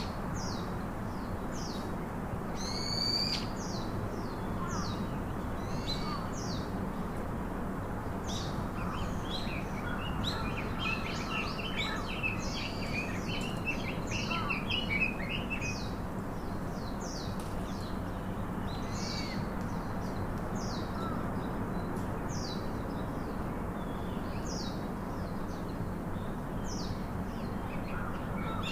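Birdsong: several birds chirping and twittering over steady background noise, with a busier stretch of quick twitters about a third of the way in.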